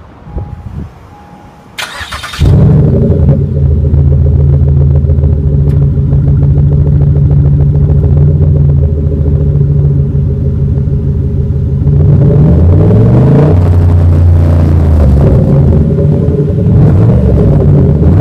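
The 2007 Pontiac Grand Prix GXP's 5.3-litre V8, exhaust with the mufflers deleted, is cranked by the starter about two seconds in and catches, then idles loudly and steadily. From about twelve seconds in its pitch swings up and down in a few short revs.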